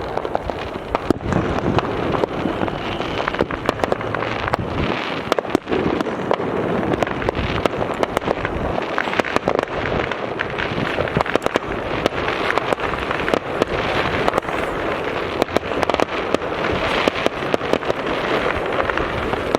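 Fireworks crackling and popping without a break, with many sharp pops and bangs over a steady crackle.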